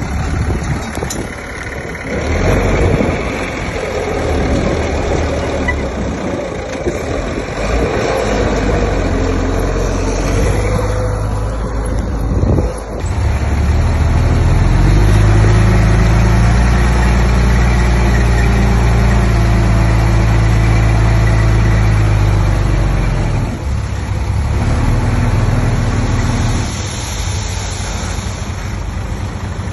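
Heavy diesel engines of earthmoving machinery (dump truck and bulldozer) running. About halfway through, one engine settles into a loud, steady drone under load for roughly ten seconds, then eases off.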